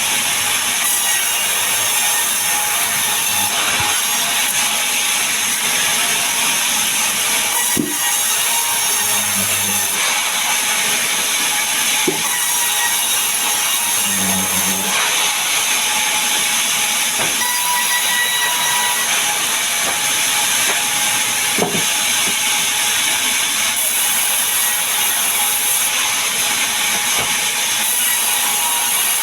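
Power saw cutting mahogany and pine wood: a steady, hissing cutting noise, with a few scattered knocks of the timber.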